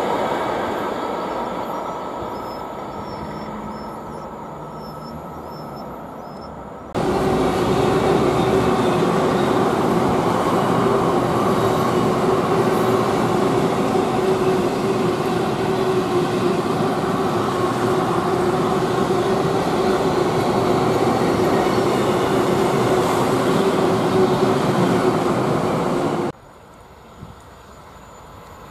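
Trains running on the rails in two spliced takes: the first fades away over about six seconds, then a loud, steady passing-train noise with a steady hum in it starts suddenly and stops abruptly after about nineteen seconds.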